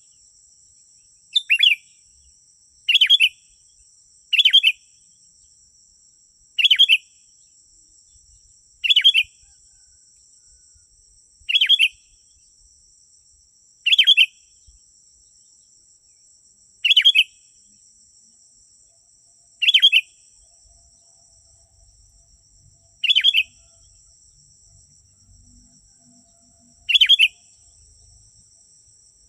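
Sooty-headed bulbul (kutilang) giving a short call again and again, eleven times, the gaps widening from about one and a half to four seconds. A steady high-pitched hum runs beneath the calls.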